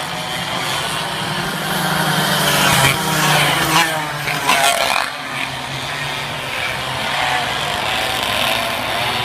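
Racing minibike engines buzzing at high revs, with a few rising whines as bikes accelerate past between about two and five seconds in.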